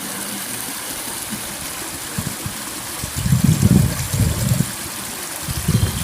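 A stream running with a steady rushing trickle. Bursts of low rumble come in about halfway through and again just before the end, louder than the water.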